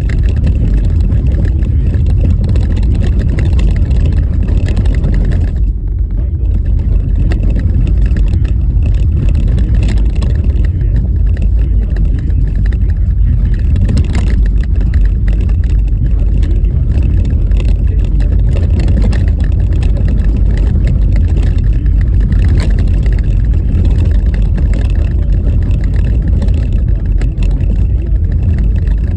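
A car driving on a rough, snow-covered road in a blizzard: a loud, steady low rumble of road and wind noise, peppered with many small knocks and rattles from the uneven surface. The rumble eases briefly about six seconds in.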